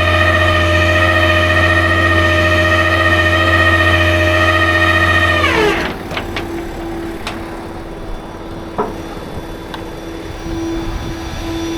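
A truck engine held at raised revs, steady for about five and a half seconds, then winding down to a lower idle. A few light knocks follow, over a steady hum.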